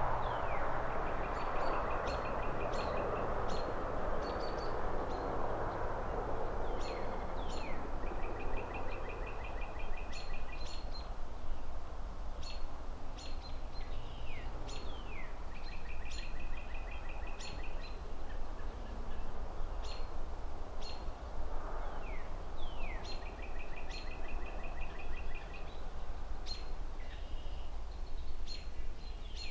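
Songbirds chirping throughout, with short high chips, quick trills and downward-sliding calls, over a low steady hum of distant traffic. The traffic noise swells and fades over the first few seconds, as of a car passing, and swells again briefly past the middle.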